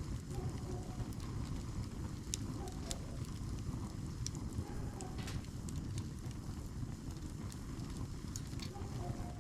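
Wood campfire in a log-cabin stack crackling: irregular sharp pops and snaps over a steady low rumble.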